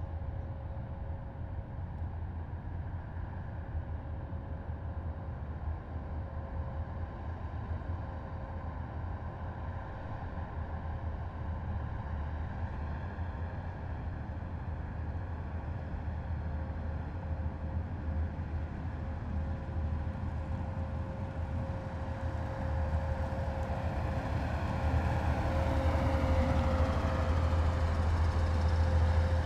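Heavy military vehicles running with a low engine rumble and a thin steady whine. The sound grows louder over the last few seconds as the vehicles draw closer.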